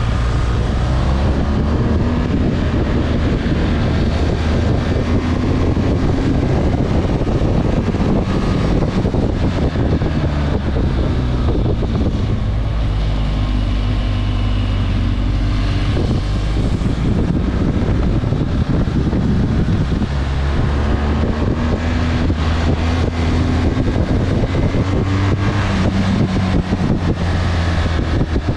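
Motorcycle engine running under way, its pitch rising and falling with the throttle several times, over heavy wind noise on the microphone.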